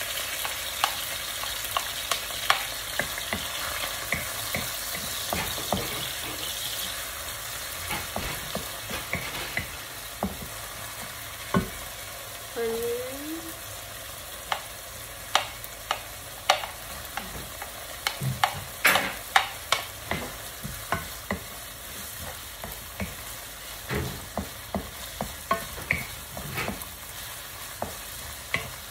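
Bacon, garlic and onion sizzling in hot oil in a pan, with a wooden spatula scraping and tapping against the pan as the mix is stirred. The sizzle is strongest in the first few seconds; the spatula taps come more often in the second half.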